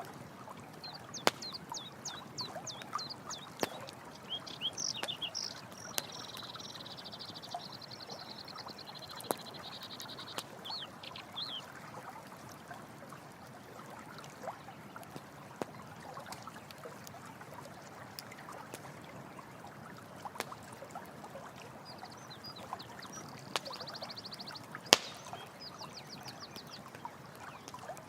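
Running water with a campfire crackling and popping in short sharp snaps. High rapid chirping trills come twice, early on for about ten seconds and again near the end.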